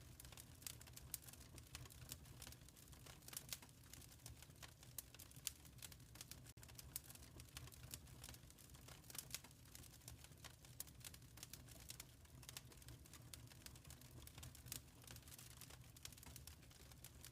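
Wood fire in a fireplace crackling faintly: a steady run of irregular small pops and snaps, a few sharper than the rest, over a low steady rumble.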